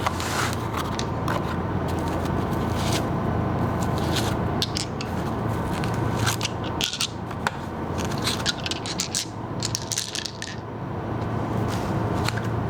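Metal clinking, scraping and rattling in quick irregular clicks, over a steady low hum.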